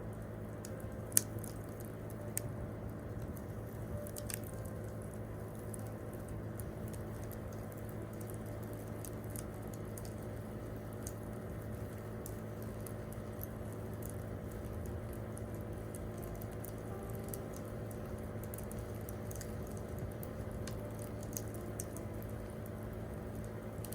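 Wood campfire crackling with irregular small pops and one sharp pop about a second in, over a low steady hum.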